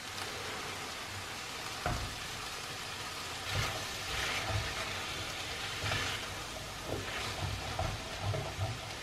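Onion, bell peppers and freshly added crushed garlic sizzling as they sauté in a frying pan, with a single light knock about two seconds in. From about three and a half seconds in, a spatula scrapes through the vegetables in repeated strokes.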